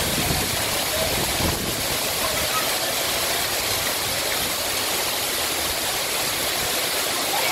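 Heavy thunderstorm rain pouring steadily onto pavement and trees, an even, loud hiss, with a low rumble in the first second and a half.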